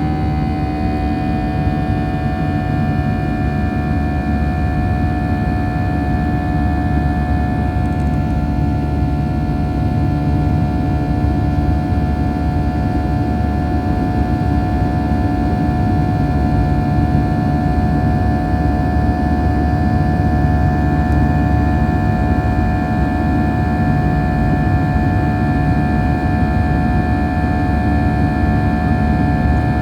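Cabin noise inside a Boeing 737-800 in flight: a steady rumble of airflow and the CFM56-7B jet engines, with several steady whining engine tones that dip slightly in pitch about a second in.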